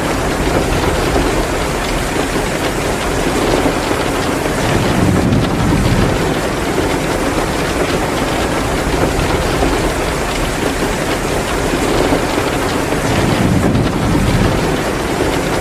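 Heavy, steady rain mixed with the crackle of a wood-burning fireplace. A low rumble swells up twice, about five and about thirteen seconds in.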